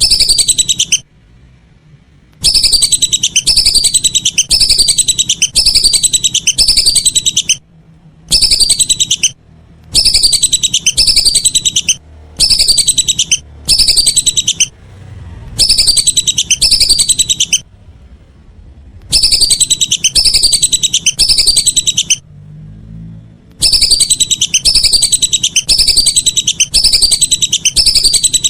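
Whistling ducks (belibis) calling as a hunting lure recording: rapid runs of high, falling whistled notes in loud bursts of one to five seconds, separated by short pauses.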